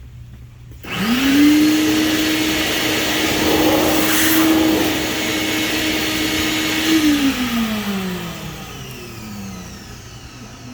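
A high-speed electric motor starts about a second in and quickly rises to a steady whine with a loud rushing hiss over it. It is switched off about seven seconds in and coasts down, its pitch falling over several seconds.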